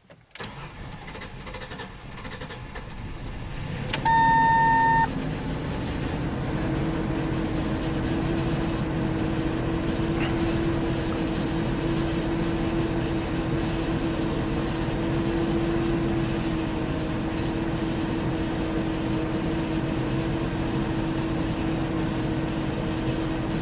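A 2002 Ford Explorer engine is cranked and catches, then runs at a steady idle; the owner says it is running rough, with a suspected fuel delivery problem. A loud electronic beep lasts about a second, roughly four seconds in.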